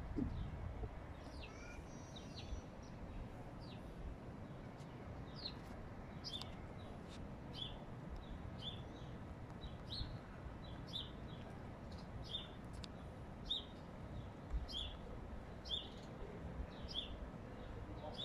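A small bird repeating a short, high chirp, irregularly at first and then steadily about twice a second, over a low, steady background noise.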